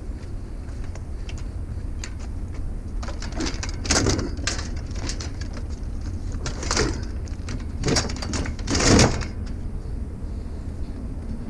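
Several short knocks and scrapes of picked-up scrap being handled, the loudest about nine seconds in, over the steady low rumble of a running vehicle.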